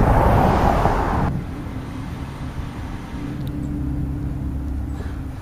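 A loud rushing noise for about the first second that cuts off abruptly, over a motor vehicle's engine running with a steady low hum.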